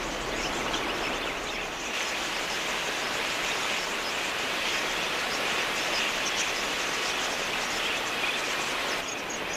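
A large flock of budgerigars chattering, a dense wash of many small overlapping calls. Near the end the sound changes and a fast, even ticking of about four a second comes in.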